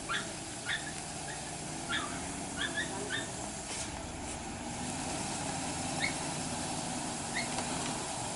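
A dog whimpering in short, high yips, several in the first three seconds and a couple more later, over a steady low hum.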